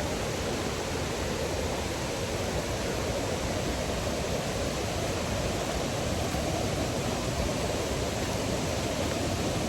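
Waterfall rushing steadily: an even wash of falling water that does not change.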